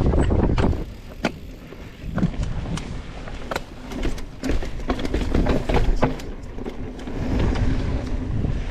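Mountain bike riding down a rocky dirt trail: a steady low rumble of tyres and wind on the bike-mounted microphone, with many sharp clicks and rattles from rocks, chain and frame. The rumble eases for about a second early on and builds again.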